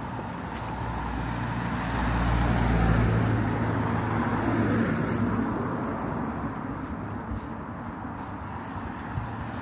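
A car passes on a town street: its engine and tyre noise swell to a peak about three seconds in and then fade into steady background traffic noise.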